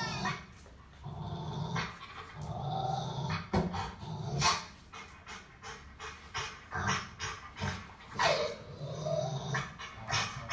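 Dog growling in several low stretches, broken by a couple of sharp barks about four and a half and eight seconds in.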